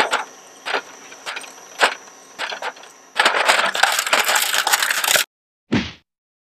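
Shredder breaking up a plastic toy truck: sharp cracks about every half second over a steady high motor whine, then about two seconds of dense crunching that cuts off abruptly. A short low burst follows near the end.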